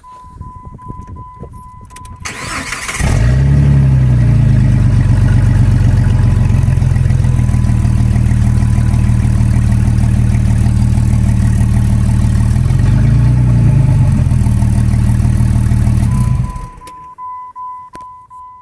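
Jeep Grand Cherokee WJ's 4.0 L straight-six cranked and started, idling loudly through a 3-inch straight-pipe exhaust with the catalytic converter removed. It gets one short rev about ten seconds after starting and is shut off near the end. A steady high electronic tone sounds before the start and again after shutdown.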